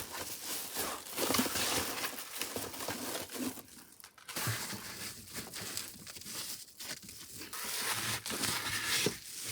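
Crinkling and rustling of sheet material being handled in a small space, with scattered light knocks and ticks, as the car's windows are closed off for the night. The rustling eases briefly about four seconds in.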